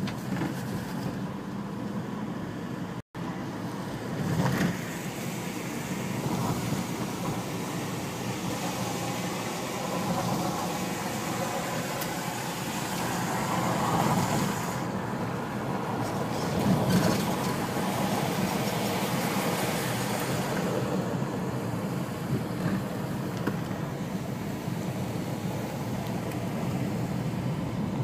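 A car driving along a road: steady engine and tyre noise that swells a little now and then. The sound cuts out for an instant about three seconds in.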